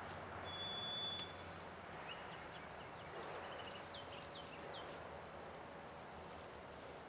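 A songbird singing: a clear whistled note, then a higher one held for about two seconds, followed by a few quick downward-slurred notes.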